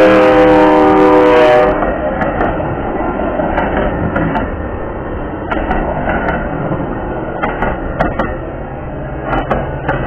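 Metra commuter train passing at speed: its horn sounds one chord blast that ends about two seconds in, then the rumble and clatter of bilevel passenger cars going by, with sharp clicks from the wheels over the rail joints. Near the end a low steady engine hum comes in as the diesel locomotive at the rear draws near.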